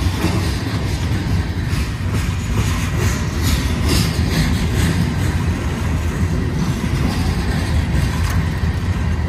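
Freight train cars rolling past close by: a steady low rumble of steel wheels on rail, with a few clicks about three to five seconds in.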